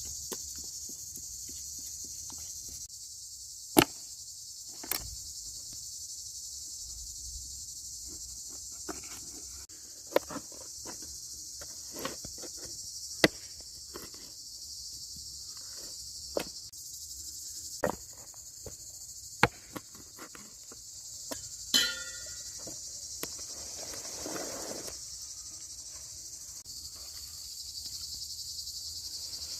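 Steady high-pitched chirring of insects, with sharp knocks and taps every few seconds.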